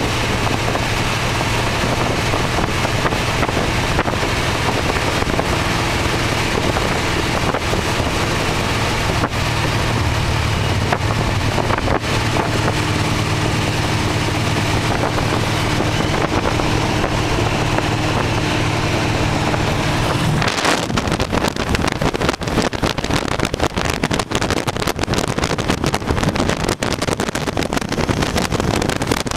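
Engine of an open-top 1928 Ford Model A hot rod roadster running steadily on the road, with wind rushing over the microphone. About twenty seconds in the steady engine drone drops away and choppy wind buffeting takes over.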